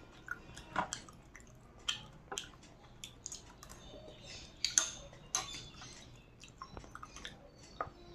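Close-miked eating: wet chewing and mouth sounds with irregular clicks and taps of food and utensils against a plate, the loudest click about five seconds in.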